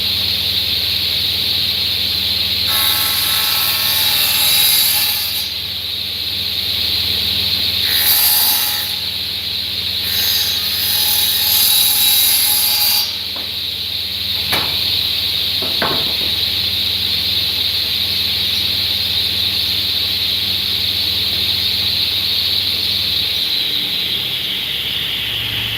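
Woodworking power tool running with a steady high whine, cutting into wood three times in louder bursts, with a couple of sharp knocks afterwards. Near the end it is switched off and the whine slides down as it spins down.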